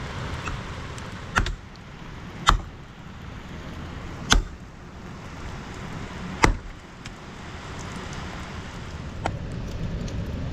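Four sharp knocks or blows at uneven intervals, one to two seconds apart, over a steady hiss.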